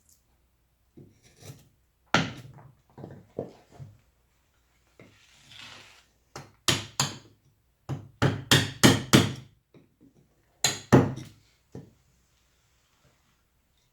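Carving chisel or gouge driven into wood by a mallet: sharp knocks in irregular bursts of two to five quick strikes with short pauses between, and a brief scrape about five seconds in.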